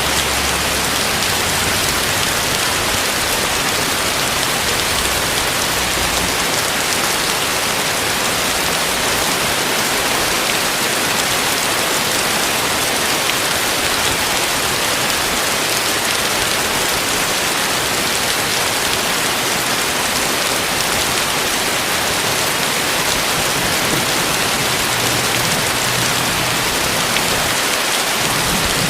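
Heavy tropical rain falling steadily, a dense, even hiss of rain striking surfaces. A low rumble sits under it in the first six seconds and again near the end.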